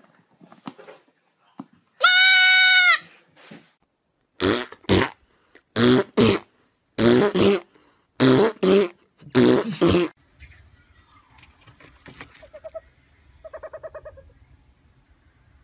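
A young goat kid bleating: one loud, long, steady bleat. It is followed by a run of about ten short loud sounds, mostly in pairs, and a brief fast-pulsing sound near the end.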